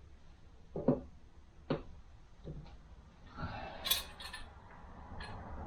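Steel automatic-transmission drums and parts being handled on a workbench: a few short metal knocks, then a scrape with a sharp metallic clink about four seconds in.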